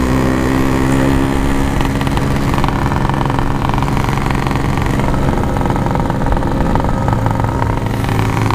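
Yamaha RX-King's two-stroke single-cylinder engine running at steady revs while riding, over road and wind noise, dropping to a lower pitch about seven seconds in.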